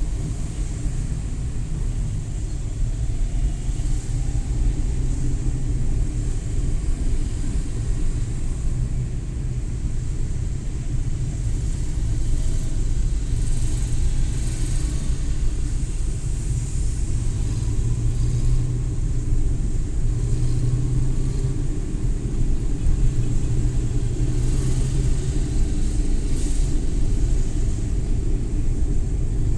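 Suzuki Every Wagon (DA64W) kei van driving, its small three-cylinder engine and the road noise making a steady low rumble. The engine note swells in a few short spells in the second half.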